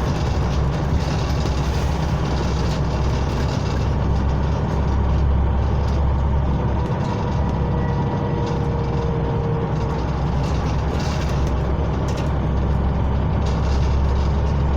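Scania OmniCity bus's diesel engine running, heard from inside the passenger saloon: a steady low rumble with road and cabin noise over it.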